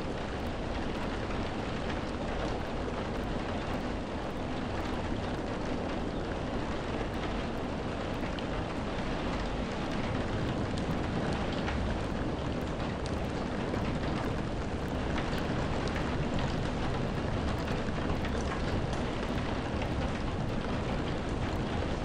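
Steady heavy rainfall: a dense, even hiss with a deep rumble underneath, slowly growing a little louder.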